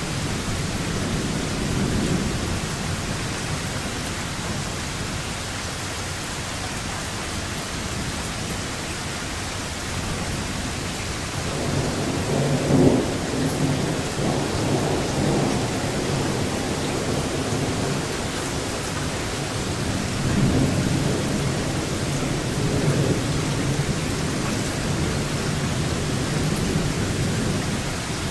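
Steady rain falling with rolling thunder. A long rumble builds about twelve seconds in, with its loudest moment about a second later, and another rumble rolls in about twenty seconds in and lasts a few seconds.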